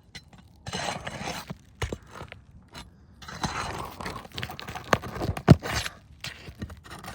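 Asphalt roof shingles scraping and crunching as they are lifted and a roofing nail is pried out, with several sharp knocks of the tool; the loudest knock comes about five and a half seconds in.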